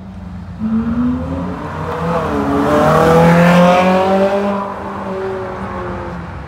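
A supercar's engine accelerating past, its note climbing as it pulls away. It is loudest about three seconds in, then fades as it drives off.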